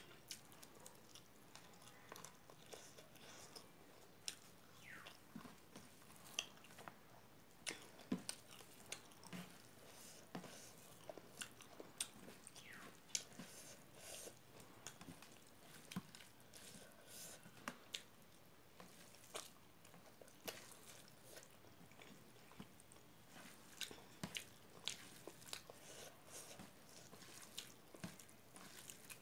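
A person chewing and eating rice by hand: quiet, close mouth sounds with many short, sharp clicks and smacks scattered throughout.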